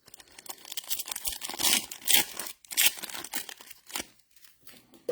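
Trading-card pack wrappers being torn open and crinkled, in a run of irregular rips and crackles lasting about four seconds.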